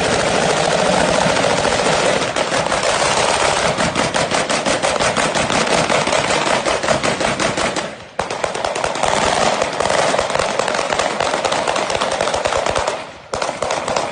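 Sustained rapid gunfire from several guns, shots overlapping in a dense, continuous volley with a brief lull about eight seconds in and another near the end.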